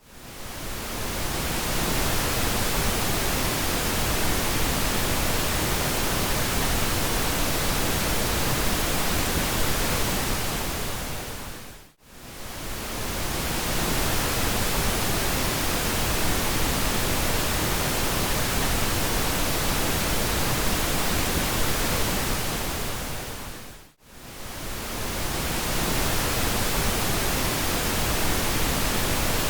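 Steady pink noise, an even hiss spread across low and high pitches. Every 12 seconds or so it dips briefly to near silence and fades back up: at the very start, about midway and again near the end, where the loop restarts.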